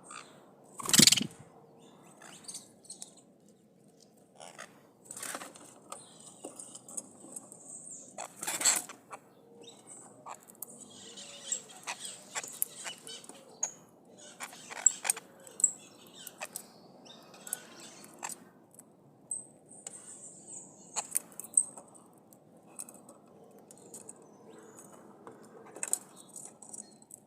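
Maritaca parrot giving short high chirps and calls, mixed with scattered small clicks and ticks. A loud, sharp, short sound comes about a second in and another at about nine seconds.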